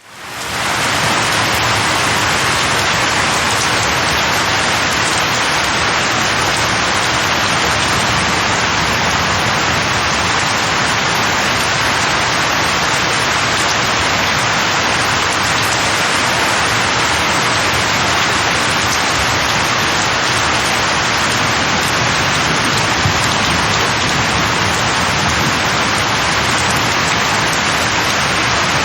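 Steady rain falling on leaves, an even hiss that fades in over the first second and then holds level.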